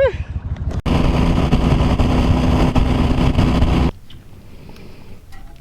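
Mud motor running at high throttle, churning to push a stuck boat through thick marsh grass, then cutting off sharply about four seconds in.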